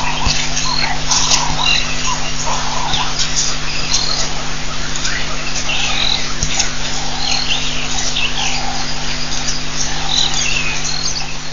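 Birds calling: many short chirps and whistles overlapping, over a steady low hum.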